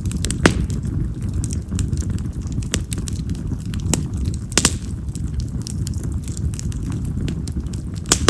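Wild cherry (yamazakura) firewood burning in an open fire: a steady low rush of flames with frequent sharp crackles and several louder pops.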